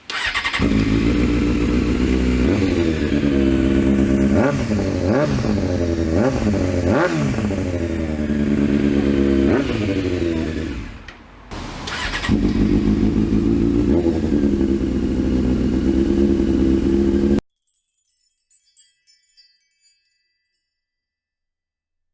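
Motorcycle engine running through an aftermarket exhaust, with several quick throttle blips that rise and fall in pitch. It settles back to a steady idle, then cuts off abruptly.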